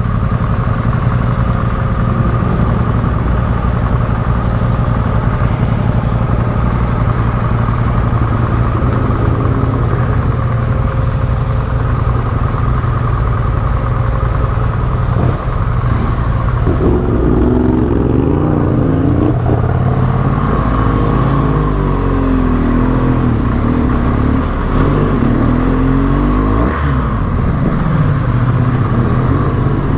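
Yamaha Ténéré 700's parallel-twin engine running under way. From about halfway through, its pitch rises and falls with throttle changes.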